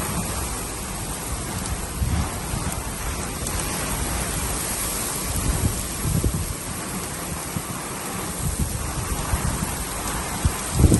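Steady heavy rain, with irregular low gusts of wind buffeting the microphone, strongest near the end.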